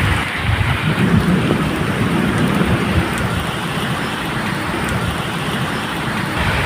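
Steady medium rain falling, with a low irregular rumble of thunder underneath.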